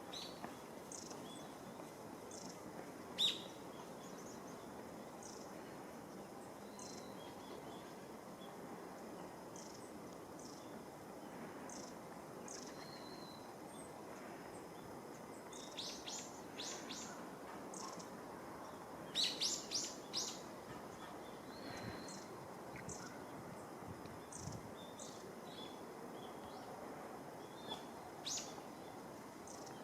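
Mixed flock of long-tailed tits and Japanese tits calling: short, thin, high calls scattered throughout. One sharp call comes about three seconds in, and two quick clusters of calls come past the halfway point, over a steady background hiss.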